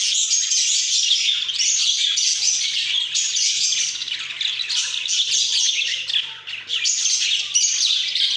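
A flock of pet budgerigars chattering and chirping without a break, many quick, high tweets overlapping.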